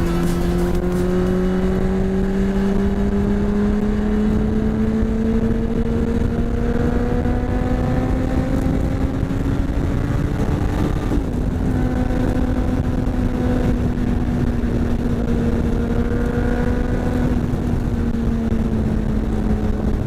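Honda CBR600RR inline-four engine under way, its note climbing slowly as it pulls through one gear, dropping at an upshift about halfway, then holding fairly steady, with constant wind rush.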